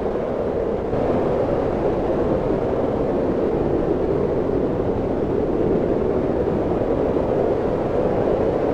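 Steady wind noise, a low rushing that swells slightly about a second in.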